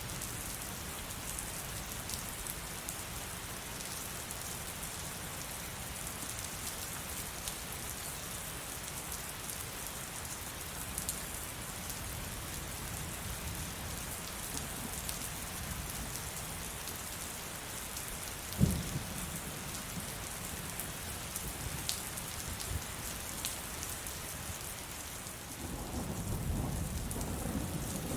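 Steady heavy rain falling, with a single sharp thunderclap about two-thirds of the way through and a low rolling thunder rumble building near the end.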